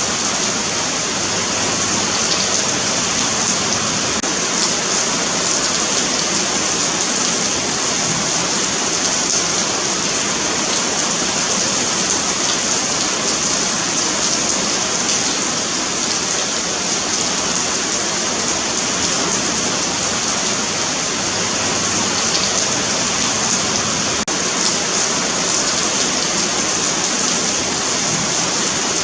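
Steady rain falling on a paved sidewalk, an even hiss of drops splashing on concrete.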